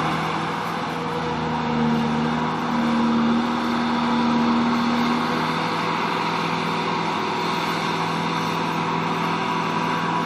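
Bobcat T250 compact track loader's diesel engine running steadily under hydraulic work, rising in revs for a few seconds from about two seconds in.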